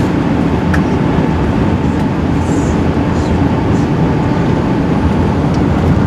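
Steady low rumble inside the cabin of an Airbus A380 taxiing after landing: its engines running at low power as the airliner rolls along the taxiway, with a faint steady tone above the rumble.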